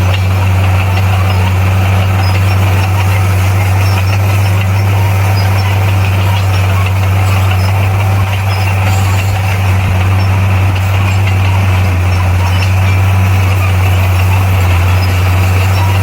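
Komatsu D58P bulldozer's diesel engine running steadily, a loud low drone that holds one pitch without revving.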